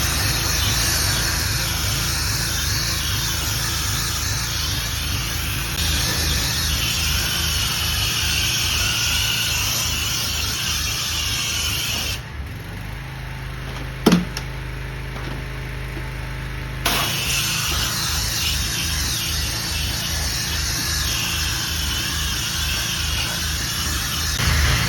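Pressure washer running, its motor pulsing steadily under the hiss of the spray. The spray cuts off for about five seconds midway while the motor keeps running, with a short sharp squeal in that pause, then starts again.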